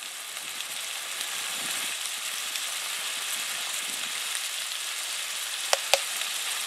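Corn, onion, celery and bell pepper frying in butter in a pot, a steady sizzling hiss. Two sharp clicks come close together near the end.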